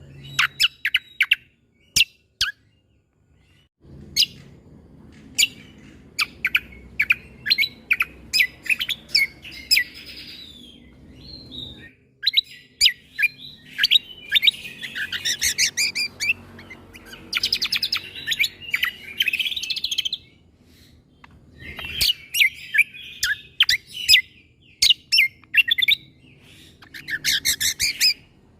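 Cucak kombo (kecial kombok) songbird singing: a string of sharp, short shot-like notes broken by bursts of fast, high chattering trills.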